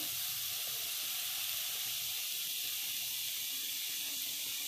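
Grated cauliflower sizzling in hot oil in a pan: a steady, even hiss of frying.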